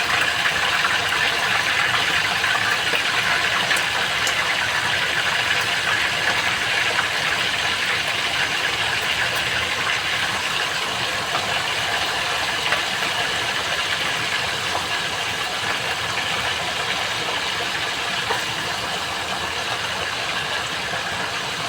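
Chicken pieces frying in hot oil: a steady sizzle with fine crackling and spattering, easing slightly toward the end.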